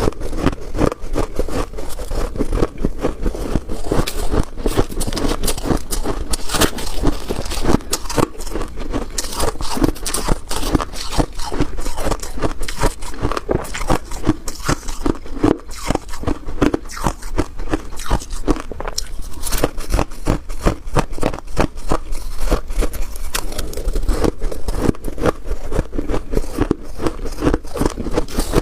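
Freezer frost crunching: a dense, unbroken run of crisp crackles.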